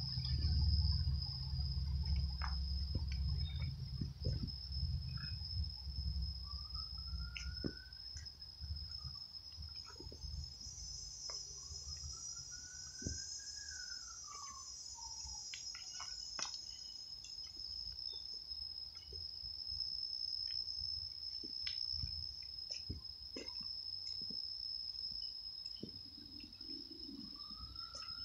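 Crickets chirring in one steady, unbroken high-pitched note, with a bird giving a few slurred whistles that rise and then fall. Scattered light clicks and crunches of footsteps on the woodland path, with a low rumble during the first few seconds.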